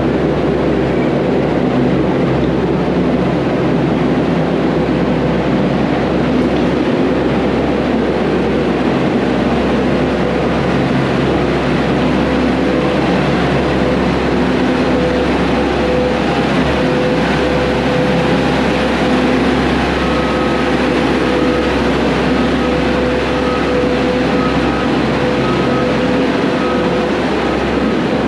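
Heavy diesel equipment running steadily, a continuous loud mechanical rumble with a faint droning tone over it.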